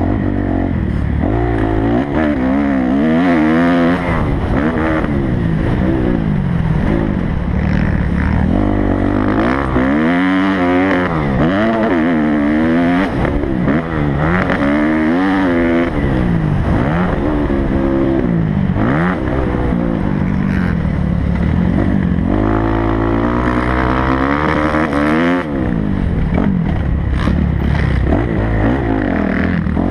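Kawasaki motocross bike engine being ridden hard, its pitch climbing and dropping again and again as the rider twists the throttle through gears, shutting off and accelerating every second or two.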